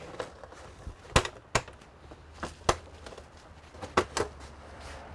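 Irregular sharp clicks and knocks of small hard parts or tools being handled on a workbench, about five in all, over a low steady hum.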